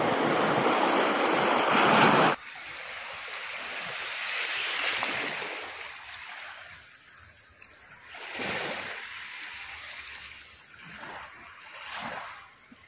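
Sea waves washing against a rocky shore, loud with wind on the microphone for the first two seconds, then cutting off abruptly to softer surges that rise and fall a few times.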